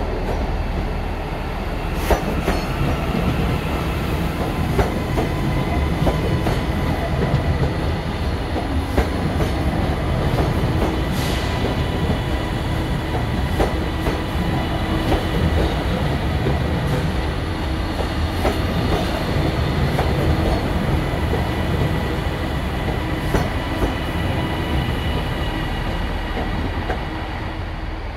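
TransPennine Express Class 397 electric multiple unit running along the platform. The wheels click over the rail joints under a steady rumble and a thin, steady whine.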